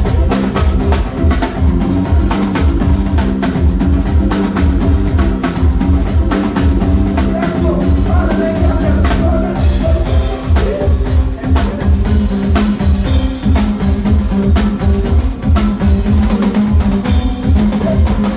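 Live band playing an instrumental groove: a drum kit with steady kick and snare hits over bass and sustained keyboard notes.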